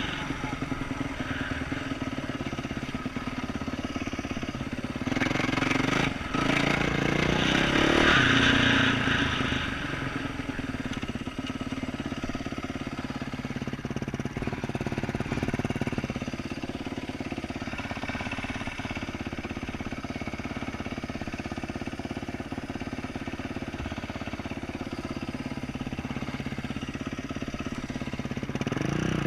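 2012 Yamaha YZ450F dirt bike's single-cylinder four-stroke engine with an aftermarket exhaust, running under way on a trail. It revs up louder for a few seconds about five seconds in, then settles to a steadier, lower throttle.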